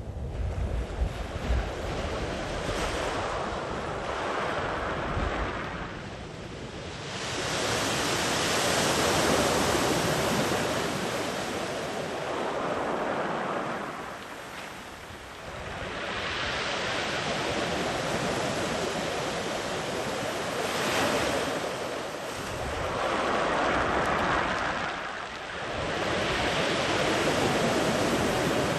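Sea waves rolling in and washing far up the beach, the surf swelling and ebbing in long surges every several seconds. Wind buffets the microphone with a low rumble near the start.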